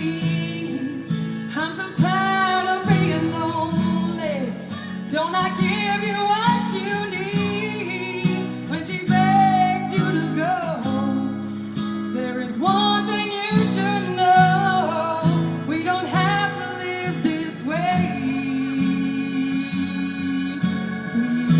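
A female vocalist singing a song over acoustic guitar accompaniment.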